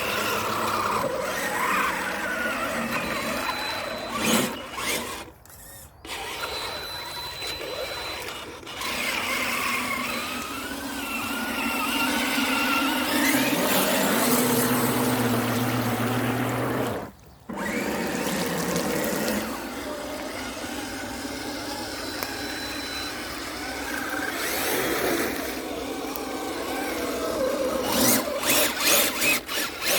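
Electric motor and gears of an Axial SCX10 II radio-control crawler whining as it is driven through mud, the pitch rising and falling with the throttle. The sound cuts out briefly twice, and comes in choppy pulses near the end.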